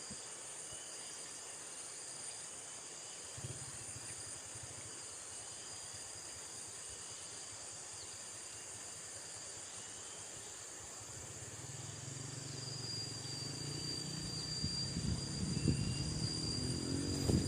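Steady high-pitched insect chorus, typical of crickets or cicadas, with a low rumble building up in the second half.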